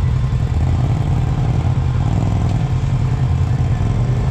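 Side-by-side UTV engine running steadily under way, a constant low drone.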